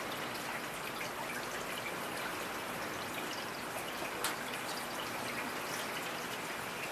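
Steady rain falling, with individual drops ticking on a surface; one sharper drop stands out about four seconds in.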